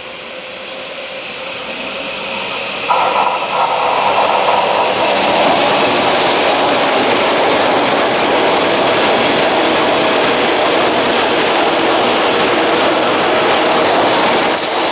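Electric commuter train approaching and passing close by. Its running noise grows louder, jumps up sharply about three seconds in, then holds as a loud, steady rumble and rattle of wheels on rails while the cars go past.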